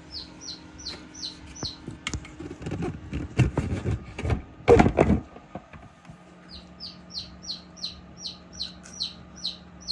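Newly hatched chicken chick peeping: a regular run of short, high, falling peeps, about two or three a second. Midway the peeps stop while loud bumps and rustling from handling take over, then the peeping starts again.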